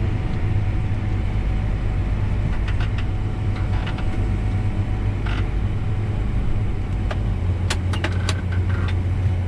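Combine harvester running steadily as it harvests corn, a deep engine drone heard from inside the cab, with a few light clicks and rattles. The drone grows stronger in the last couple of seconds.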